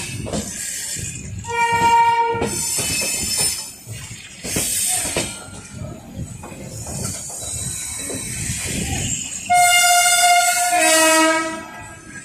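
Indian Railways train running over the tracks with a continuous rattling clatter of wheels on rail. A horn sounds briefly about two seconds in and again for about two seconds near the end, the second time stepping down in pitch.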